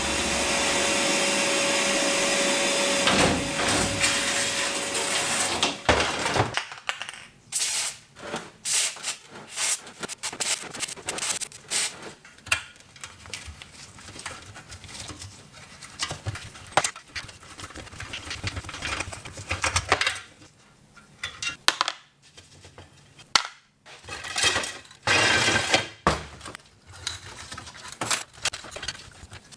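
A steady mechanical running sound, from a motor or power tool, stops about six seconds in. It is followed by scattered clicks, knocks and scrapes of tools and metal parts being handled.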